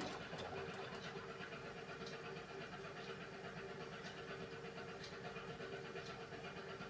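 Beko WMY81283LMB2 washing machine running a hand wash cycle: a steady motor hum and low rumble, with a faint tick about once a second.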